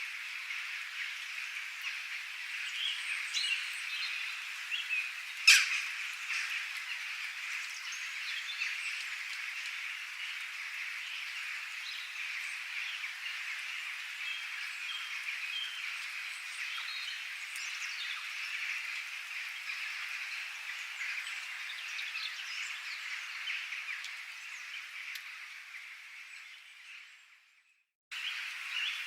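Dense, steady chorus of calling frogs with scattered bird chirps above it, and a single sharp crack about five seconds in. Near the end the chorus fades out to silence and then cuts abruptly back in.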